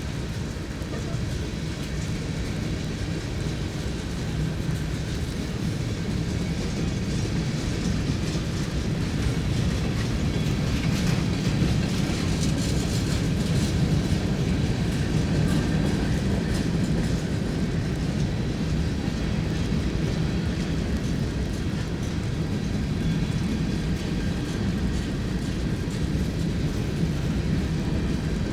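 A train rolling steadily past, wheels and cars rumbling on the rails, a little louder in the middle of the stretch.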